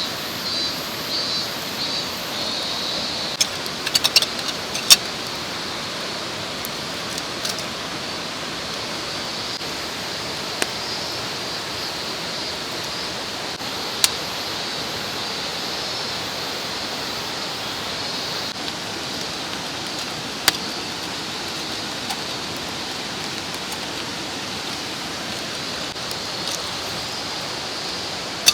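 Mountain stream running steadily, with a high, even buzz of summer insects over it that pulses in the first few seconds. A few sharp clicks and taps stand out here and there.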